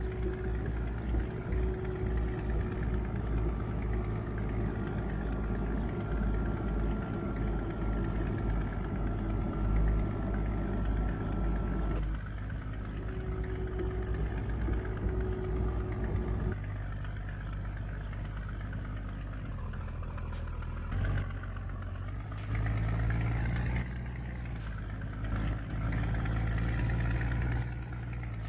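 Scania G124 truck's six-cylinder diesel engine running steadily, its note shifting abruptly about twelve seconds in and again a few seconds later.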